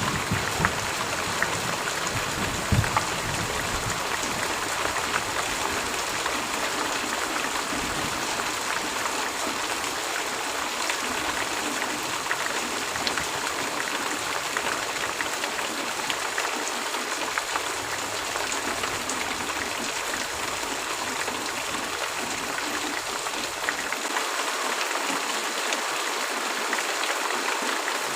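Steady heavy rain: an even hiss of falling rain with scattered drop ticks, and a couple of dull knocks in the first few seconds.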